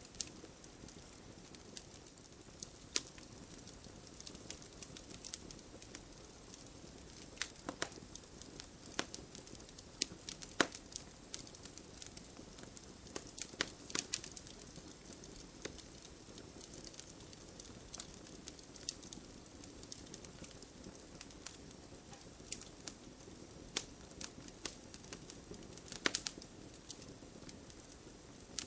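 Fireplace wood fire crackling: scattered sharp pops and snaps over a soft steady hiss, with louder pops about ten seconds in and again near the end.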